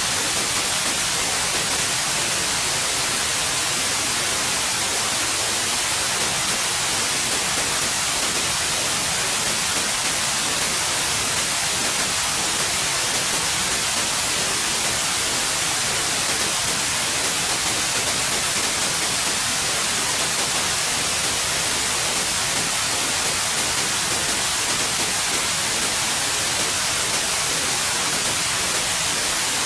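Steady white noise: an even, unchanging hiss, brightest in the high frequencies, with no breaks or changes.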